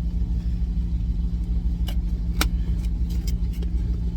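Idling truck engine giving a steady low drone, with a few light clicks and clatters between about two and three and a half seconds in.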